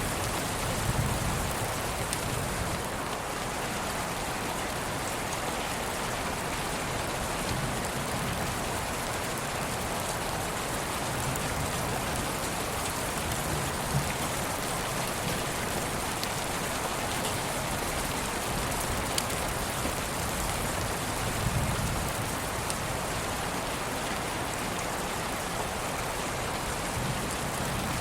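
Steady rain sound: an even hiss with scattered light drop ticks.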